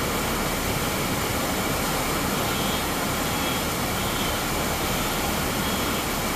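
Heavy rain falling on floodwater: a steady, even rushing hiss.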